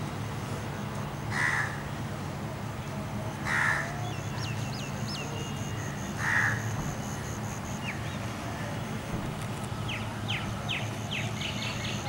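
Birds calling in a garden: three loud single calls a couple of seconds apart, then near the end a quick run of high chirps from small birds, over a steady low hum.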